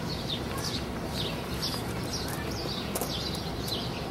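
A bird calling over and over in short, falling chirps, about three a second, over a steady low background rumble.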